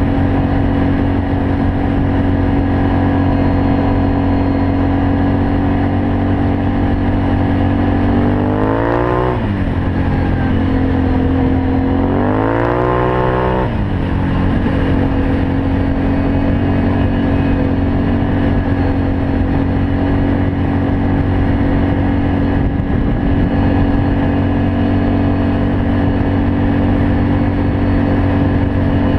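Can-Am Outlander 500 ATV's V-twin engine running through an aftermarket Yoshimura exhaust at a steady pitch, revved up twice in the middle before dropping back.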